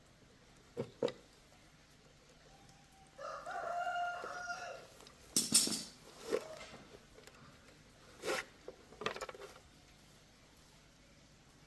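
A rooster crowing once, a held call of about a second and a half, among several short sharp knocks or clacks; the loudest knock comes just after the crow.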